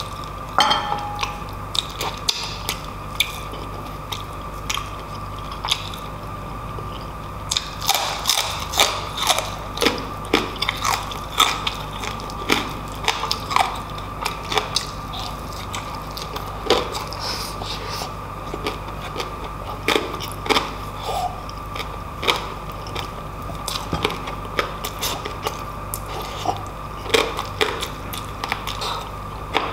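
Close-miked chewing and mouth sounds of a person eating lechon paksiw (braised roast pork in sauce) and rice by hand: many sharp, irregular clicks and smacks, busier from about a quarter of the way in, over a faint steady background hum.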